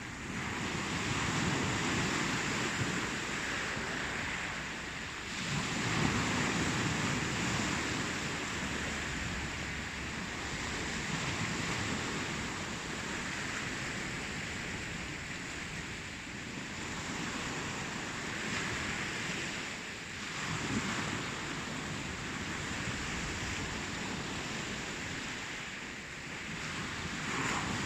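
Ocean waves breaking and washing ashore in a steady rhythm, each surge swelling and ebbing over several seconds.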